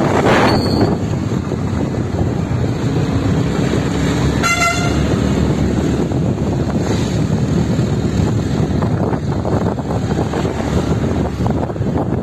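Steady road and vehicle noise with wind buffeting the microphone while travelling along a road. About four and a half seconds in, a vehicle horn gives one short toot.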